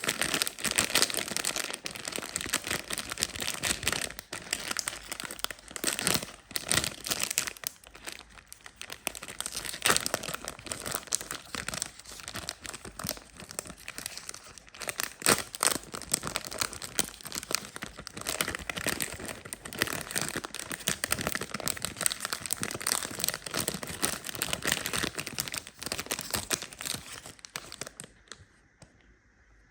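Wrappers of chocolate ice cream treats being crinkled and torn open by hand, a dense, irregular crackling and rustling that stops about two seconds before the end.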